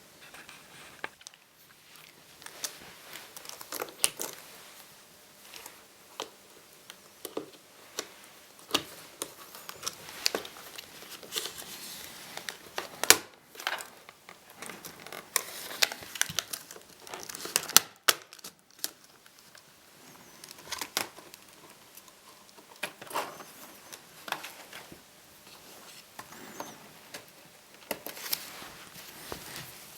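Small plastic clicks, snaps and rustling from the case of an Acer Aspire 5732ZG laptop being taken apart by hand, as the power-button panel and keyboard are worked loose. The clicks are scattered and irregular, with two louder snaps about halfway through and a little later.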